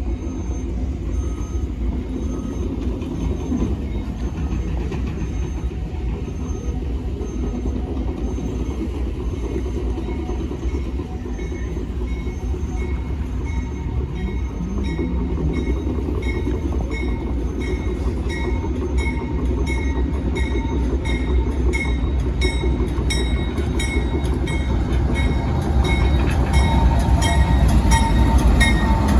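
A train running along the track with a steady low rumble and a regular ticking beat that quickens from about halfway in, growing louder near the end as it comes closer.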